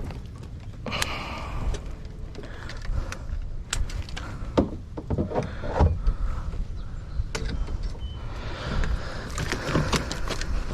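Irregular knocks, clicks and rattles of a landing net and a just-netted fish being handled in a kayak, over a steady low rumble.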